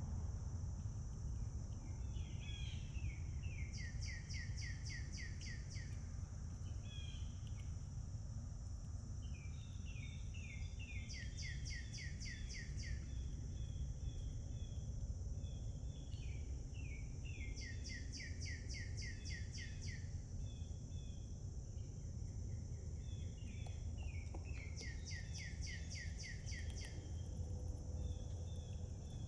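A songbird sings the same rapid trilled phrase four times, about every seven seconds, with shorter chirps between. Under it run a steady high-pitched insect drone and a low rumble of background noise.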